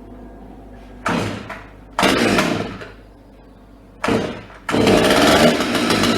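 Stihl MS200 two-stroke chainsaw being pull-started on its freshly repaired recoil starter. Three short bursts that die away, then the engine catches about three-quarters of the way in and keeps running.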